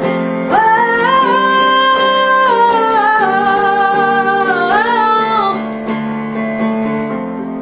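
A singer holding one long note for about five seconds, stepping down in pitch partway and ending with a wavering run, over guitar accompaniment; the accompaniment then carries on alone.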